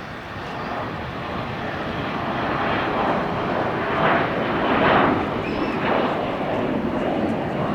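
Airliner engines rushing as a plane passes the airport observation deck, growing steadily louder, with swells about four and five seconds in.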